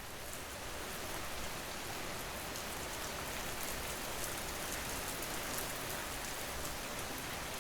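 Steady rain falling, an even hiss of drops with faint light pattering.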